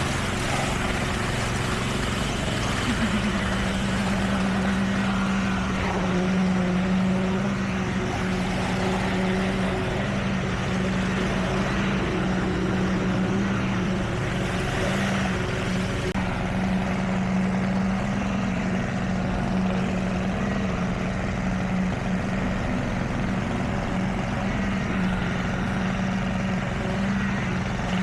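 A heavy construction machine's engine running steadily; its pitch rises a little about three seconds in and then holds.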